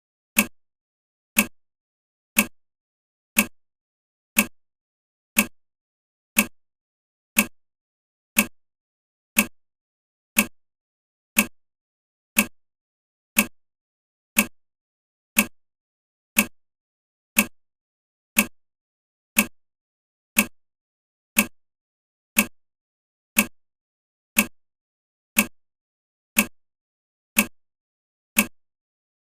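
A short, sharp click repeating evenly once a second, each dying away quickly, with silence between.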